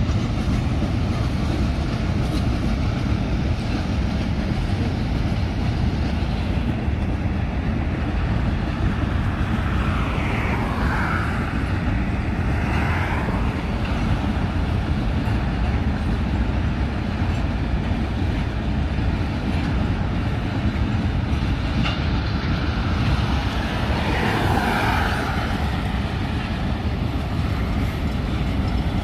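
Steady low rumble of a long freight train's wagons rolling along the track, mixed with road noise from a vehicle driving alongside. A brief higher whine dips and rises in pitch twice, about ten seconds in and near the end.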